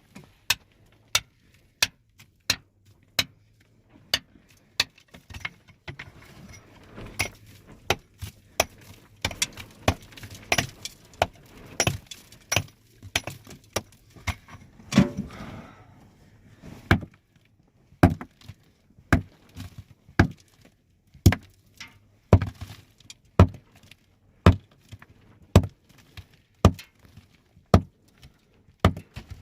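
Repeated sharp knocks of something hard being struck, about one a second and fairly regular, with a longer scraping rumble about halfway through.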